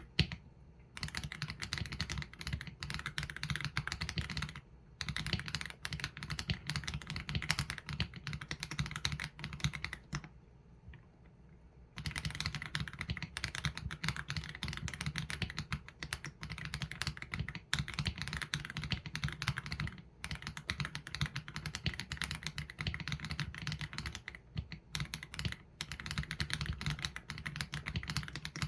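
Steady, fast typing on an AULA F87 Pro mechanical keyboard with Leobog Graywood V3 linear switches and PBT keycaps, dense runs of keystrokes broken by short pauses. About a third of the way in the typing stops for about two seconds.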